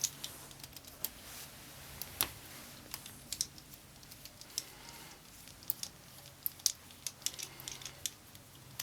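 Irregular light clicks and taps of small hard objects being handled, several a second and unevenly spaced, over a faint low hum.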